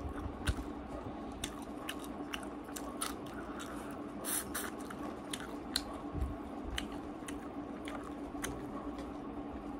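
A person chewing a mouthful of rice and vegetables eaten by hand, with many small, irregular mouth clicks and smacks. A steady low hum runs underneath.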